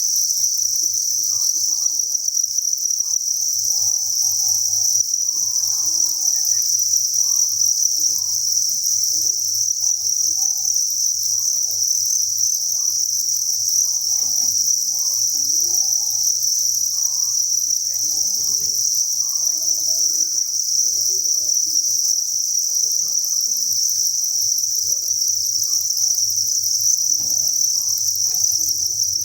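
A dense chorus of thousands of farmed crickets chirping together: a continuous, high-pitched, shimmering trill, with a faint steady low hum beneath.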